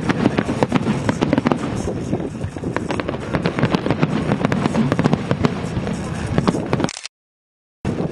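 Aerial fireworks bursting in rapid, dense succession: many sharp cracks over a continuous low rumble. Near the end the sound cuts out completely for just under a second, then resumes.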